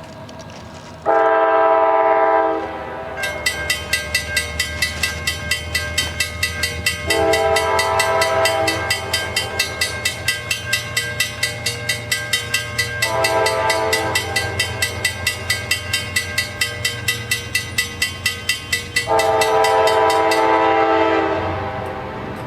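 Diesel freight locomotive sounding its multi-chime air horn in four blasts about six seconds apart, the last one longest, while its bell rings steadily at about three strokes a second, over the low rumble of the engine. Horn and bell together are the warning given on the approach to a grade crossing.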